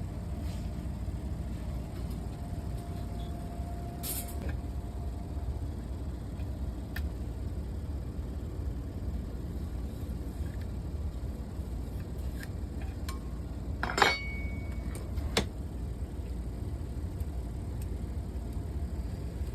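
Steady low hum with a few scattered light clicks and knocks of small objects being handled; the loudest click comes about fourteen seconds in and another about a second and a half later.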